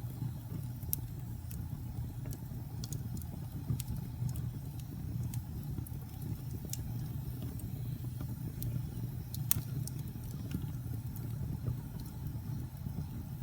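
Wood fire burning in a fireplace: a steady low rumble of flames with scattered, irregular sharp crackles and pops from the burning wood.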